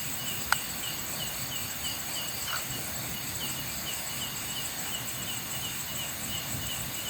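Night insect chorus of crickets: a steady high-pitched trill with a chirp repeating about three times a second. A single sharp click comes about half a second in.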